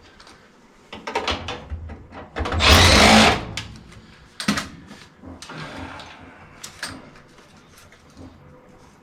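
A cordless power driver runs for about a second, spinning a screw out of sheet-metal furnace panels, amid scattered clicks and knocks of metal parts being handled.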